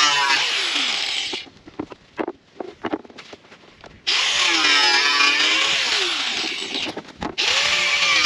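Handheld power tool run in bursts, its motor pitch dipping and recovering as it cuts under load, with light knocks and clicks in the pause between about one and four seconds in.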